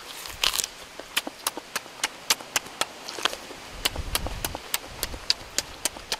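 Close-up open-mouthed chewing and lip smacking while eating roasted duck: a quick run of wet clicks, about four a second.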